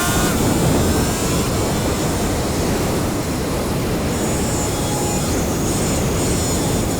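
Antigravity A1 camera drone's propellers whirring steadily in flight, a constant rushing hum with a faint steady whine over it.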